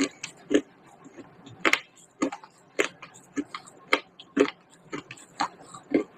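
Baked clay pot pieces being bitten and chewed close to the microphone: a string of sharp, dry crunches, about two a second, with no steady rhythm.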